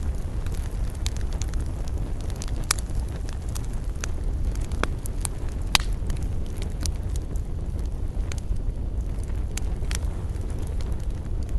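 Wood campfire burning, with a steady low rumble and irregular sharp crackles and pops, a few of them louder than the rest.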